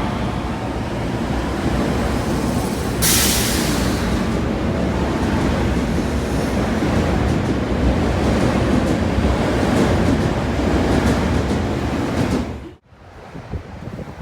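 Osaka Metro train running at a station platform with a steady loud rumble, a sharp hiss of air about three seconds in. The sound breaks off abruptly near the end.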